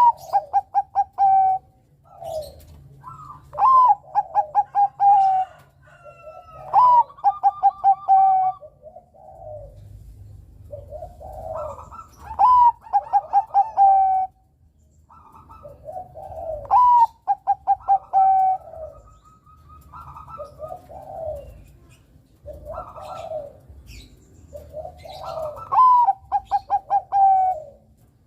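Bangkok-type zebra dove (perkutut) singing: phrase after phrase, each a rising coo followed by a quick string of short, even coos, with softer lower coos between the phrases.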